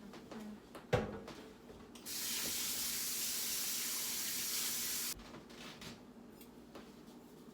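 A knock about a second in, then a kitchen tap running into the sink for about three seconds before it is shut off abruptly.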